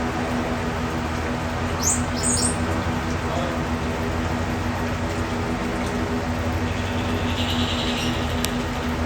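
Three quick high bird chirps about two seconds in and a short buzzy bird call near the end, over a steady mechanical hum.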